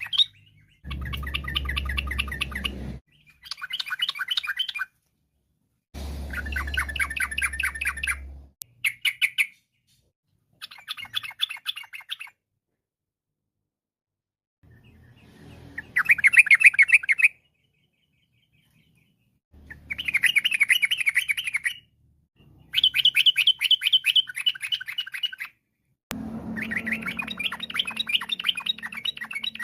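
Yellow-vented bulbul (trucukan) singing in repeated bouts of rapid, bubbling chatter, each a second or two long, with abrupt silent gaps between them.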